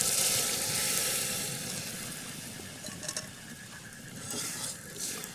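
Onion and chilli sizzling in a pan over a wood fire, loud at first and dying down as the added spice water boils off, with a few light clicks of a stirring utensil.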